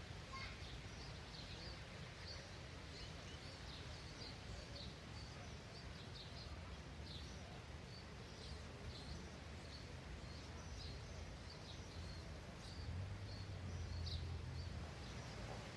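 Small birds chirping, many short high calls scattered throughout, over a steady low outdoor rumble that swells briefly near the end.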